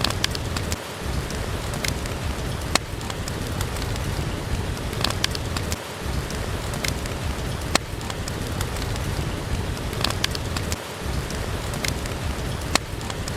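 Steady heavy rain with a low rumble, and scattered sharp clicks and pops throughout from drips or the fireplace's crackling.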